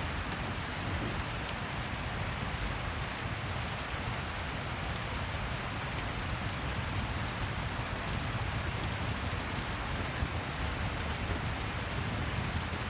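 Steady rain, an even hiss with faint scattered crackles of a fireplace.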